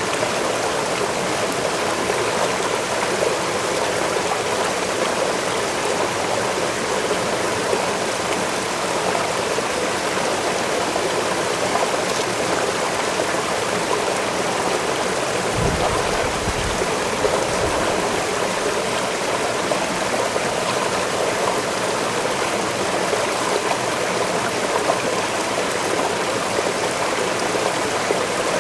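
Waterfall rushing in a steady, unbroken flow of water noise, with a brief low rumble about halfway through.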